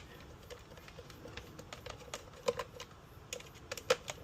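Irregular light clicks and taps of hard plastic vacuum parts and small screws being handled during disassembly of a Dyson stick vacuum, with a couple of sharper clicks near the middle and near the end.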